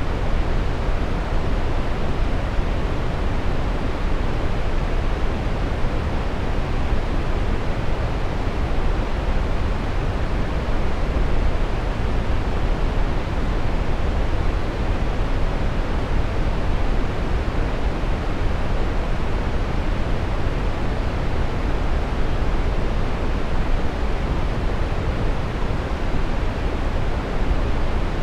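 Steady brown noise: an even, deep rushing hiss, weighted to the low end and tapering off in the highs, that does not change.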